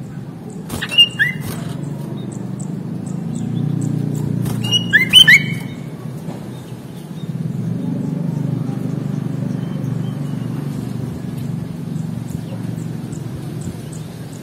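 Sooty-headed bulbul (kutilang) giving two short bursts of loud chirping notes, about a second in and again about five seconds in, over a steady low hum.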